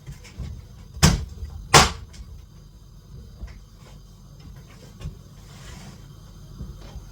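Two sharp chops of a knife on a cutting board, about a second in and again just under a second later, with a few light knocks after, over a low steady hum.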